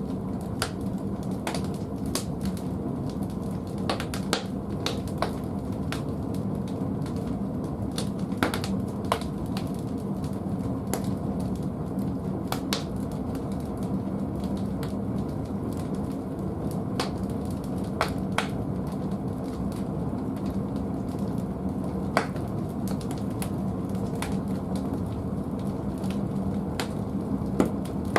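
Firewood burning in an old wood-fired boiler's firebox: a steady low rumble with scattered sharp crackles and pops, one louder pop near the end.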